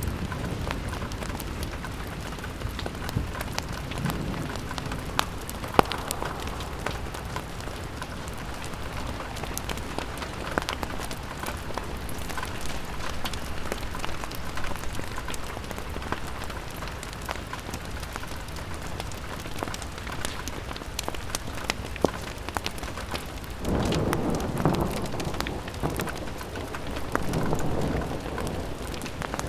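Steady rain falling on a window, with scattered sharp ticks and pops through it. Two low swells of rumble rise and fade near the end.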